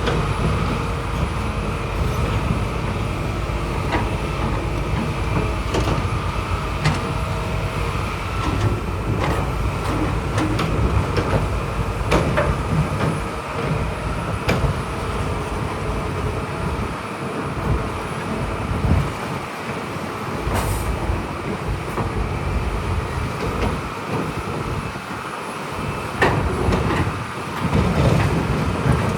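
Heavy diesel earthmoving machinery, most likely a crawler bulldozer, running steadily under load, with scattered metallic clanks and knocks. It gets louder briefly near the end.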